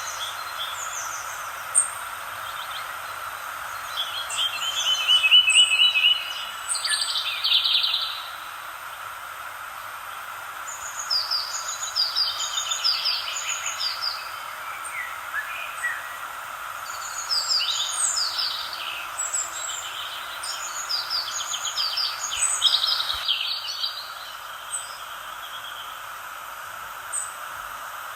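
Songbirds chirping and trilling in bursts of quick repeated notes over a steady background hiss, with quieter spells between the bursts.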